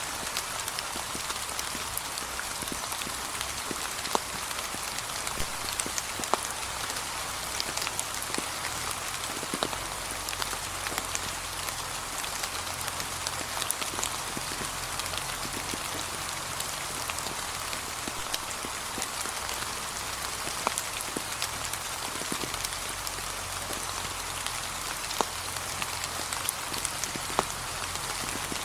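Steady light rain falling on fallen leaves, an even patter with scattered louder drop ticks.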